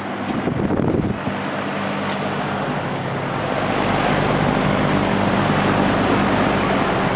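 General Electric F15W13 box fan running on high: a rush of air with a steady motor hum. It swells louder about three seconds in, the fan not yet up to its full operating speed.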